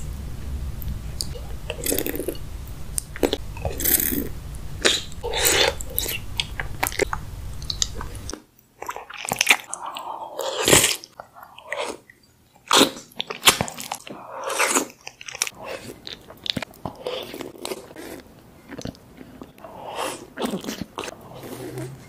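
Close-miked mouth sounds of people biting and chewing soft-boiled eggs in sauce, in irregular short bites. A low steady hum lies under the first eight seconds or so and stops abruptly.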